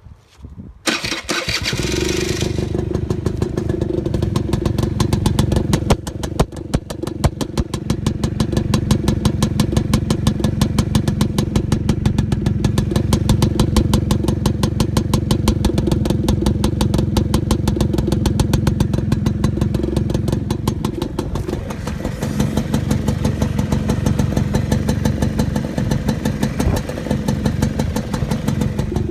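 Suzuki quad (ATV) with a performance exhaust pipe starting up: the engine catches about a second in and settles into a steady run, with the even beat of its firing pulses.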